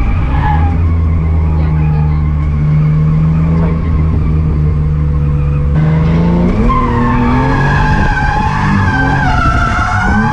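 Ford Barra inline-six engine in an R31 Skyline drift car, running at steady revs, with tyres skidding. About six seconds in, the revs climb and then rise and fall.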